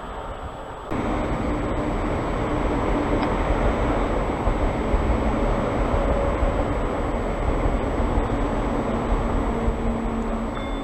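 Electric multiple-unit train running close by: a steady rumble with a low motor hum that shifts in pitch, coming in abruptly about a second in.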